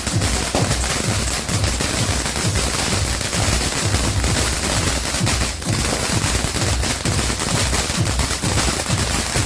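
Dragon Fireworks 'Fountain of Youth' firework going off in a dense, rapid, unbroken crackle of pops, like machine-gun fire.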